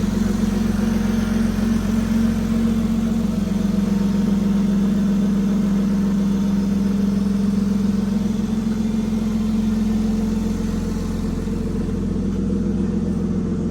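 Toyota 2JZ-GE 3.0-litre straight-six engine idling steadily.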